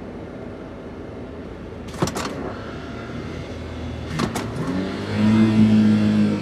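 Daihatsu Hijet kei van's 660 cc three-cylinder engine running on the road, with a sharp knock about two seconds in and two more near four seconds. From about five seconds the engine note rises and grows louder as it accelerates, then falls back at the end.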